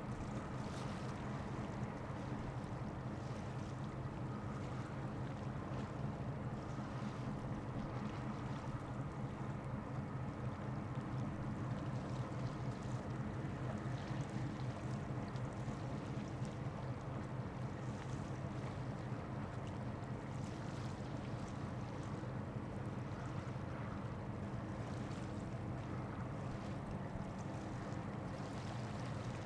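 Ship diesel engines running steadily, a low, even drone from a large vessel and its attending tugboats.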